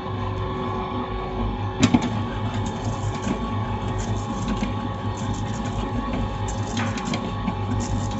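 Electric mixer motor running steadily while beating cookie dough, with a sharp clack about two seconds in.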